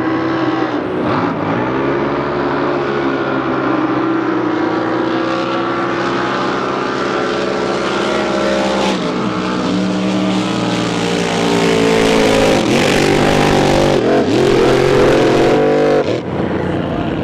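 Drag boat racing engine running at low speed, its pitch dipping and rising several times as the throttle is blipped, louder for a few seconds near the end before it drops back.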